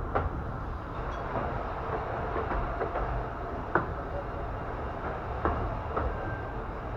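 Miniature railway carriage running along the 15-inch gauge track: a steady rumble with irregular sharp clicks and knocks from the wheels and rails, the loudest about four seconds in.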